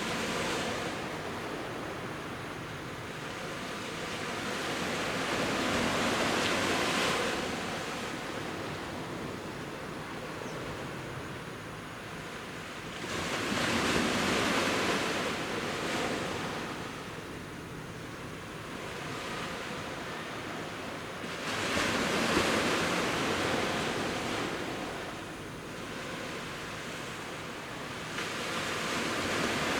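Sea waves breaking and washing up on a beach, the surf swelling and fading about every seven to eight seconds.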